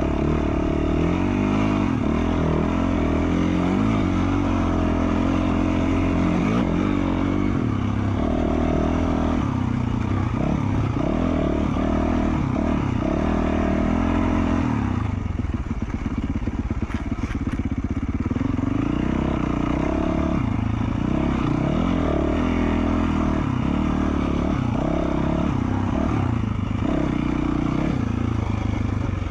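2020 Yamaha YZ450F's single-cylinder four-stroke engine, fitted with an FMF Q4 slip-on muffler, running under changing throttle as the bike is ridden, its pitch rising and falling. About halfway through the engine note drops for a few seconds as the throttle is closed, then picks back up.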